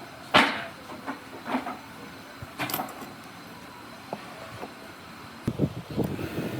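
A sharp knock, then a few lighter knocks, then about five seconds in a run of quick, irregular clattering knocks, as of hard objects being handled or struck during woodworking.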